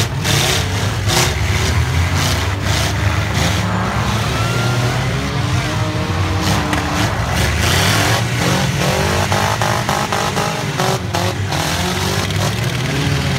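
Several four-cylinder demolition derby cars running and revving hard, with sharp bangs of car bodies hitting each other scattered throughout.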